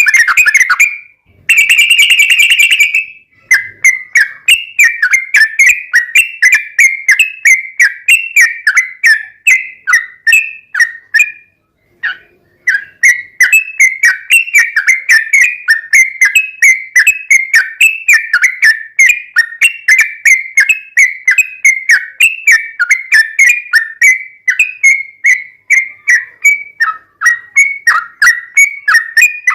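Yellow-vented bulbul (trucukan) singing a long, fast string of short repeated whistled notes, with a short pause about twelve seconds in.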